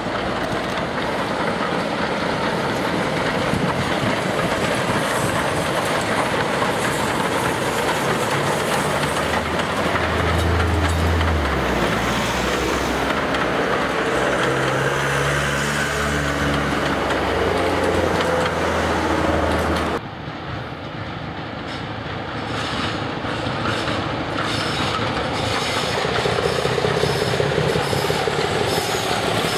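Passenger train passing, hauled by a diesel locomotive coupled ahead of a steam tank engine: the diesel engine running over the rumble of the coach wheels on the rails. After a sudden cut about two-thirds through, another diesel-hauled train approaches and the noise builds again.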